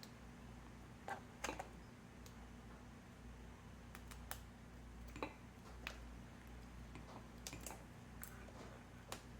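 Faint, irregular clicks and taps from handling a multimeter and its test leads on a light-bulb circuit model, over a low steady hum.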